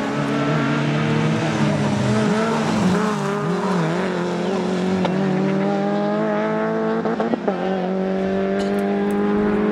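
Rally car engine running at high revs, its pitch wavering up and down with the throttle and briefly dipping about seven seconds in.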